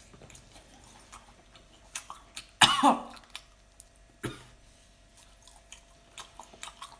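A person coughing from the sting of chili while eating very spicy food: one loud cough about two and a half seconds in, then a shorter cough or throat-clearing just over a second later, with faint chewing clicks between.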